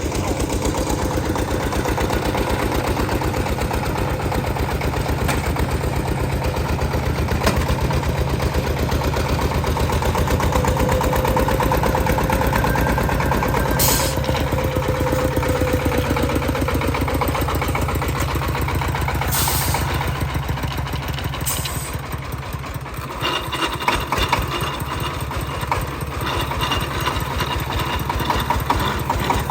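Tractor engine running steadily with a rapid, even firing beat, easing off briefly a little after twenty seconds.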